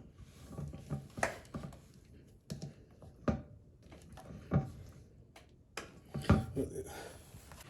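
Irregular knocks, taps and clicks of plastic parts being handled and fitted while installing a reverse osmosis water filter system, with short quiet gaps between them; the loudest knocks fall a little after the middle.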